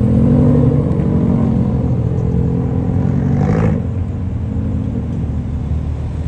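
Car engine rumbling steadily, with a brief rushing sound about three and a half seconds in, after which it runs a little quieter.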